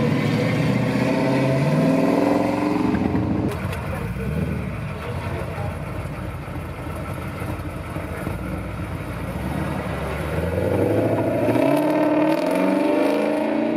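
Cars' engines accelerating away. A first-generation Ford Mustang revs up with rising pitch for the first few seconds, then a lower engine rumble runs through the middle. From about eleven seconds in, a fourth-generation Chevrolet Camaro accelerates hard, its pitch climbing.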